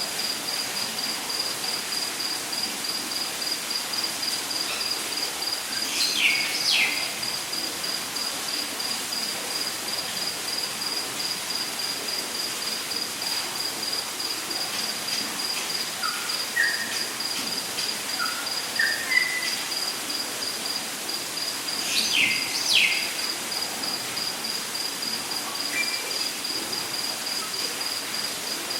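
Rainforest ambience: an insect trilling steadily in rapid, even pulses at one high pitch. Over it a bird twice gives a pair of quick, steeply falling whistles, with a run of short rising notes in between.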